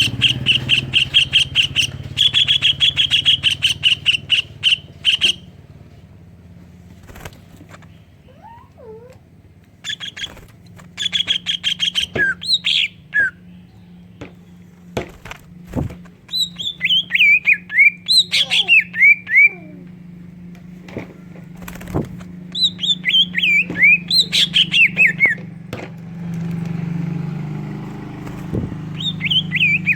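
A cucak ijo (green leafbird) sings a song filled with mimicked tengkek udang (kingfisher) calls. It comes in bursts of fast rattling repeated notes and runs of sharp notes that each drop in pitch, with short pauses between the bursts.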